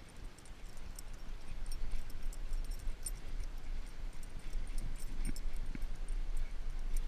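A steady low rumble with scattered light metallic clicks and jingling, as from a bicycle being ridden.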